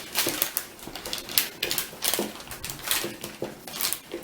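Squeeze-trigger bar clamps being tightened down on boards, their handles clicking in a quick irregular series of about two to three clicks a second.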